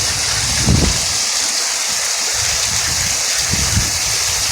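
Heavy rain pouring down in a storm, a steady loud hiss, with low rumbles of wind on the microphone in the first second.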